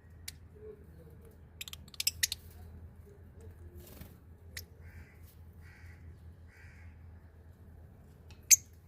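Birds giving short harsh calls and sharp clicks, a quick cluster of them about two seconds in and one loud sharp call near the end, with a few soft chirps in between over a low hum.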